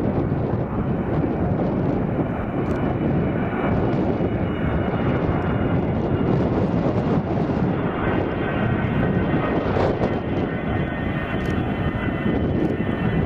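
Boeing 727-200 jet's three Pratt & Whitney JT8D low-bypass turbofans running steadily as it arrives to land, a heavy roar with a thin whine of several steady tones that comes in a few seconds in and grows stronger past the middle.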